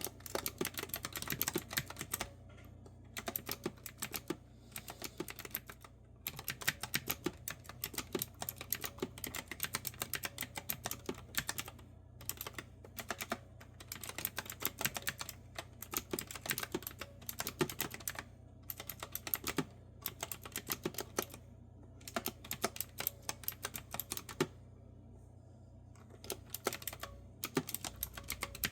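Typing on a clicky retro-style keyboard with round keys: rapid bursts of crisp keystroke clicks, broken by short pauses every few seconds, over a faint steady low hum.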